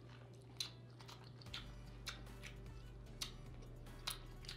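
Faint wet mouth sounds of someone chewing a mouthful of king crab meat: a handful of short lip smacks and clicks spaced about a second apart.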